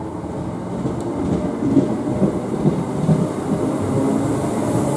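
Class 319 electric multiple unit moving along the platform close by. Its wheels on the rails and its running gear grow steadily louder as it draws past.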